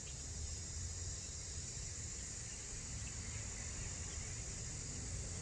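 Steady high-pitched chorus of insects, crickets or the like, over a low rumble of outdoor background noise.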